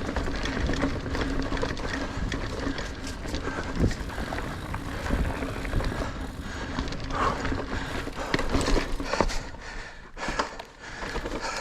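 Niner Air 9 RDO 29er mountain bike ridden along dirt singletrack: tyres rolling on the trail, with drivetrain and frame rattling and occasional knocks over bumps, over a steady low rumble.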